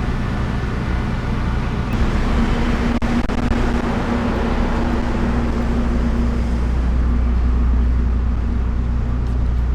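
Steady low rumble of a motor vehicle engine with road noise, a humming tone standing out in the middle.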